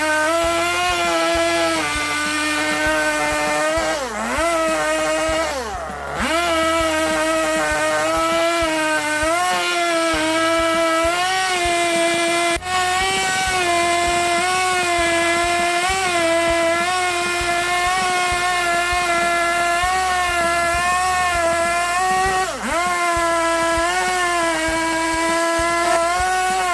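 Chainsaw running at high speed on a wooden log, holding a steady high pitch with small wobbles. Its pitch dips sharply and recovers three times: about four seconds in, about six seconds in, and near the end.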